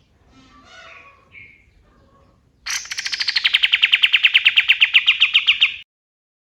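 Male kapas tembak songbird singing: a few soft, scattered notes, then a loud, fast trill of sharp repeated notes, about ten a second, that starts with a higher note and cuts off suddenly.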